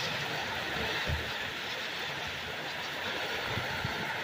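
Heavy rain and gusting wind in a severe thunderstorm make a steady rushing noise. Low bumps of wind hit the microphone about a second in and again near the end.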